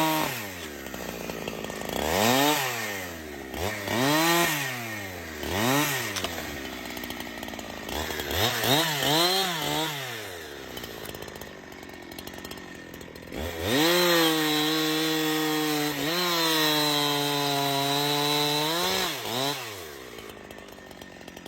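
Chainsaw engine revved up and let back down about six times in quick blips, then held at high revs for about five seconds before dropping back toward idle near the end.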